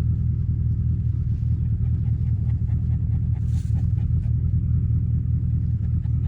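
A steady low rumble, with a few faint ticks and a short hiss about three and a half seconds in.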